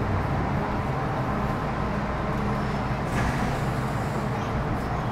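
Cabin running noise of an MTR Metro Cammell M-Train (CT-Stock) with GEC GTO chopper traction: a steady low rumble of wheels and motors on the track, with a brief click about three seconds in.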